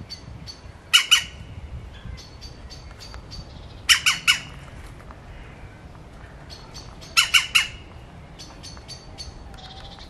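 Bird squawking: harsh calls in quick runs of two, three and then four notes, about three seconds apart. Between the runs a faint, rapid high chirping ticks along at about four a second.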